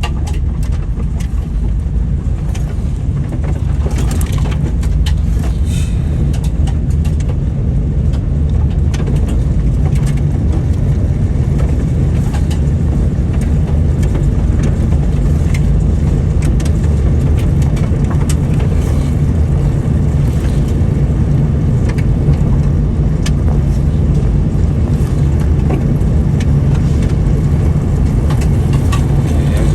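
Steady running noise of a car on the move: engine and tyre rumble, with a few scattered light ticks.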